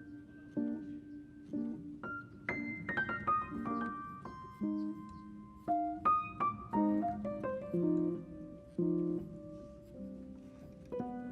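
Background piano music: a slow melody of single notes over low chords.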